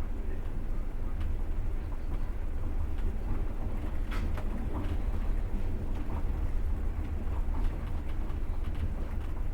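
Passenger train running on the rails, heard from inside the carriage: a steady low rumble with scattered light clicks and knocks, and one sharper knock about four seconds in.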